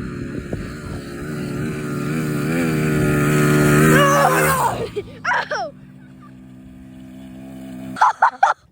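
Dirt bike engine revving, its pitch and loudness climbing for about four seconds, then falling away sharply near five seconds to a quieter steady tone. Near the end, a sudden bright call breaks in.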